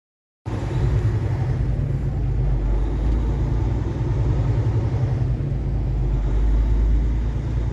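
Kenworth T680 semi truck's diesel engine running steadily, a continuous low rumble. It comes in abruptly about half a second in, after a brief gap of silence.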